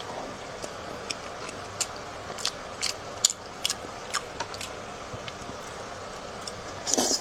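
Close-miked chewing of a piece of red-braised pork: irregular wet mouth clicks and smacks, a few a second, with a louder crackle near the end.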